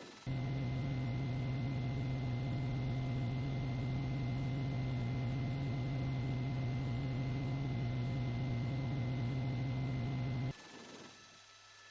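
Loud, steady mechanical drone with a strong low hum and a few steady higher tones over a noisy wash; it cuts in abruptly just after the start and cuts off abruptly near the end.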